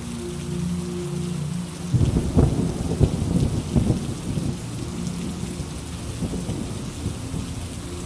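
Steady rain with a roll of thunder that breaks in about two seconds in, crackling and rumbling low for a few seconds before settling back under the rain.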